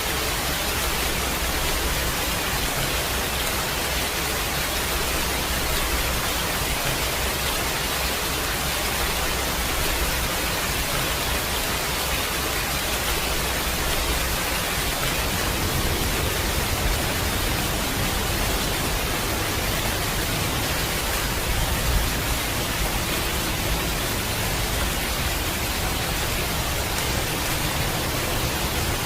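Steady heavy rain, a dense even hiss of rainfall.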